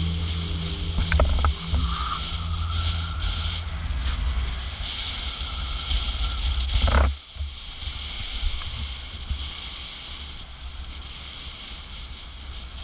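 Steady low mechanical rumble with a hiss over it and a few clicks; the rumble drops away sharply about seven seconds in, leaving fainter noise.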